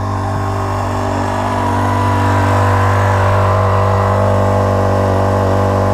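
Rainman watermaker's motor and high-pressure pump running steadily under load, making reverse-osmosis fresh water while discharging brine.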